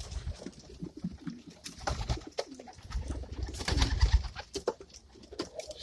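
Pigeons cooing in a coop, mixed with scattered clicks and scuffs of birds moving about.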